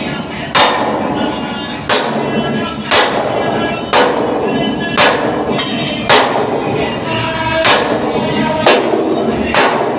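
Hammer blows on steel, about one a second but not evenly spaced, each a sharp clang with a short ring, from work on a truck's steel rear bumper. Music plays underneath.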